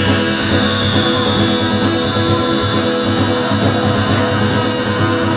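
Guitar strummed steadily, a folk-style accompaniment between sung lines.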